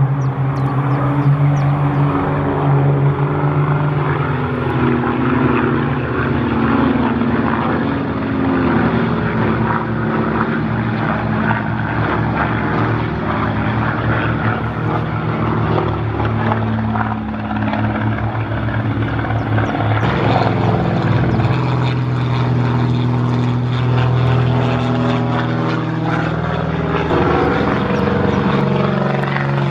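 Piston engines of a formation of four Fokker S.11 propeller trainers flying past, several engine tones overlapping with pitches that drift slowly and shift about two-thirds of the way through.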